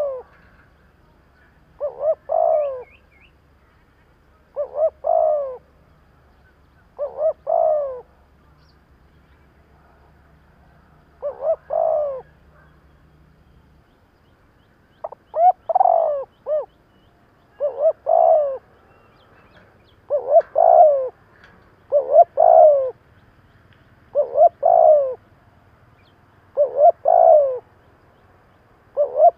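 Spotted dove calling, a short phrase of a few coos repeated every two to three seconds, in the rapid 'thúc' style used for a decoy bird to provoke wild doves.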